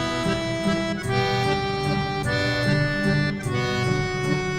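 Accordion music: a jaunty melody over a bouncing bass-and-chord accompaniment, the notes changing about once a second.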